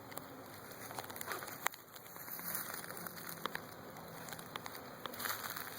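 Faint buzzing of a honeybee swarm, with a low hum for a second or so in the middle, under scattered light clicks and crackles.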